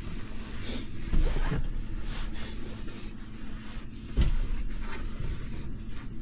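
A steady low mechanical hum with a constant tone, broken by two dull thumps, one about a second in and one about four seconds in.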